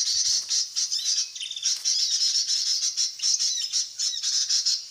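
Small songbirds calling, many quick overlapping chirps and squawks.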